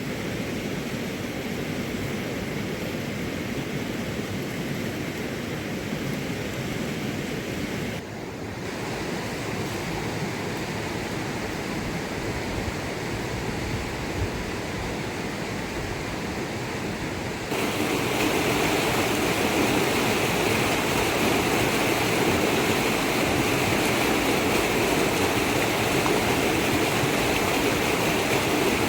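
Steady rushing water, changing abruptly about eight seconds in and again a little past halfway, where it becomes louder and brighter.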